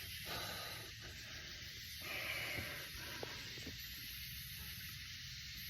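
Steady hiss of running creek water, a little louder about two seconds in.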